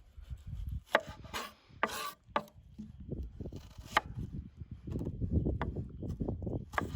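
Handling noise: a low, rough rubbing and rumbling, broken by several sharp knocks and clacks.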